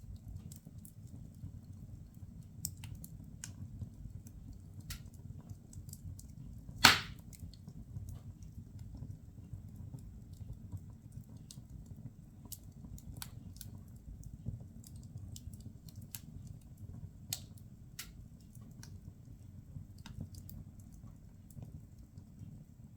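Firewood burning in a fireplace, crackling with scattered irregular pops and one loud snap about seven seconds in, over a steady low rumble.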